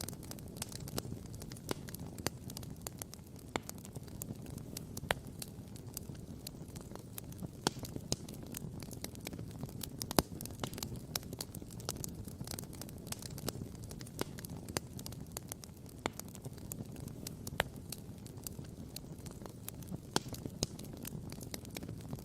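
Wood campfire crackling and popping: many sharp, irregular pops, a few louder than the rest, over a steady low rushing noise.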